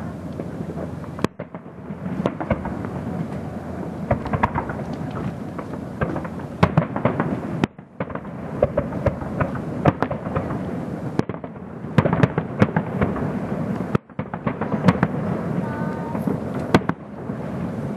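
Fireworks display: many sharp bangs and crackles over a continuous rumble of booms. The sound cuts out briefly three times.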